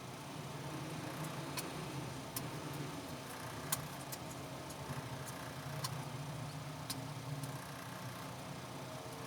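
Scattered sharp light clicks and taps, about a dozen, the loudest near the middle, over a steady low engine-like hum.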